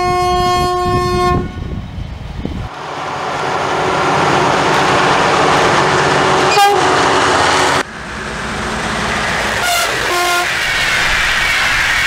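Train air horns (Makrofon type): a steady single-note blast that stops about a second in, then a passing train's rumble and wheel noise with engine drone and a very short toot. Near the end come two short horn blasts, with the rumble swelling as a train approaches.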